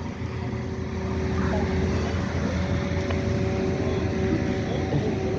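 Steady low rumble of idling vehicle engines, with a steady humming tone over it.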